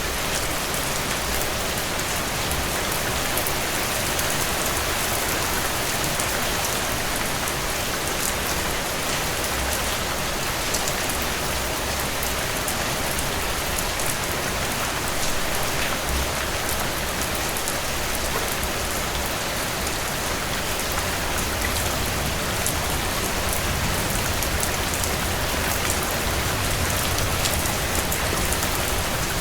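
Heavy rain falling steadily on a cabin porch, an even wash of noise with many small sharp drop ticks.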